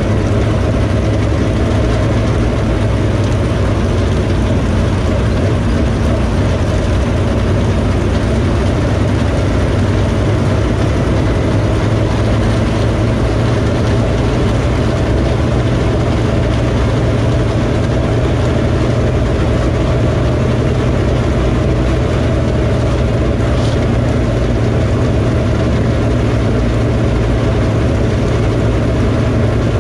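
Dirt late model race car's V8 engine running at a steady, unchanging pitch, heard loud from inside the car.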